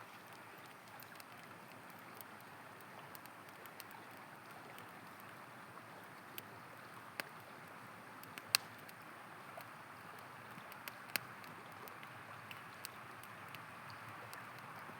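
Steady rush of a flowing river, with the irregular sharp crackles and pops of a campfire scattered over it; one pop a little past halfway is the loudest.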